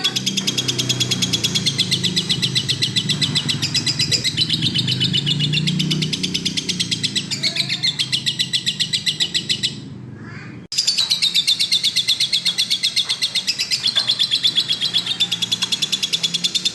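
Lovebird singing a long, rapid chattering trill of high chirps, several a second. It breaks off shortly before ten seconds in and starts again abruptly about a second later.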